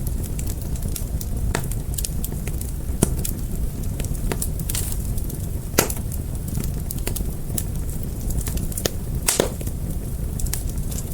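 Wood fire burning, a steady low rumble of flame with irregular crackles and a few louder pops.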